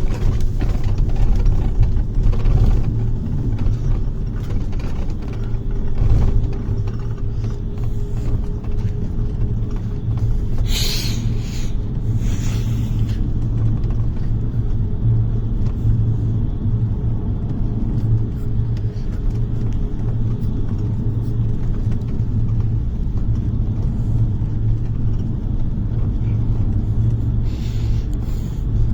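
Bus engine and road noise heard from inside the cabin: a steady low rumble, with a faint tone that rises slightly over the first several seconds. Two short hisses come just before the middle, and a weaker one near the end.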